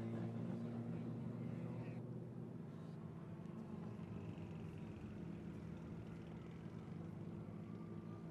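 Engines of two drift cars in a tandem drift, a steady fairly faint drone, with a faint rising tone near the end.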